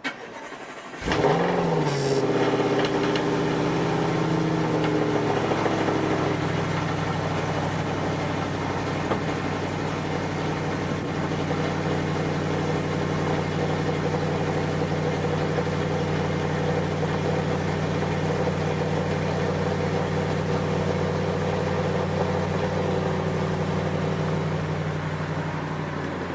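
2015 Audi RS5's 4.2-litre V8 starting about a second in: the revs flare up briefly, then drop over a few seconds and settle into a steady idle through the exhaust.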